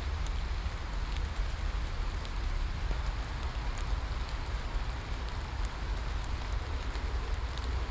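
Steady rain falling, an even hiss with scattered droplet ticks and a constant low rumble underneath.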